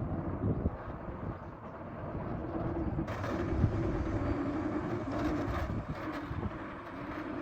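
Excavator's diesel engine running with a steady rumble and hum. About three seconds in, a brighter hiss joins it, with scattered knocks.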